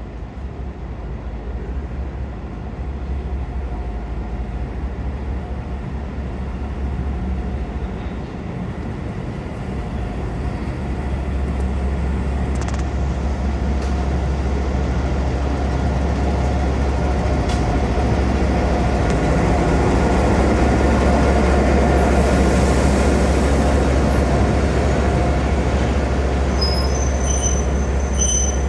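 Train pulling into a station, its rumble growing steadily louder as it approaches. Near the end, high-pitched squeals of the brakes and wheels start as it slows.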